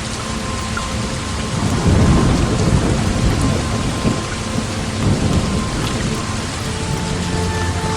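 Heavy rain falling steadily, with a rolling rumble of thunder that swells about two seconds in and dies away a few seconds later.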